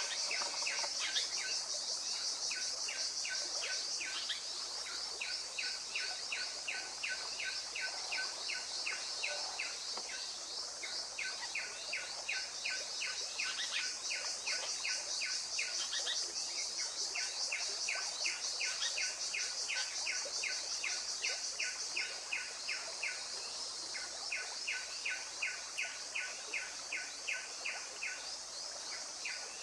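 A bird calling in long runs of evenly spaced, repeated notes, about three or four a second, each run lasting several seconds with short gaps between. Beneath it runs a steady high insect drone.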